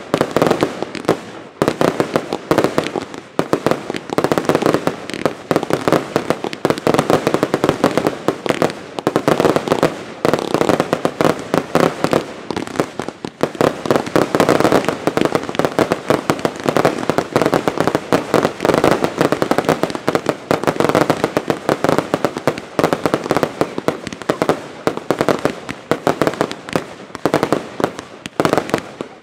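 Fireworks going off in a dense, unbroken stream of sharp bangs, many a second, with only brief dips in loudness.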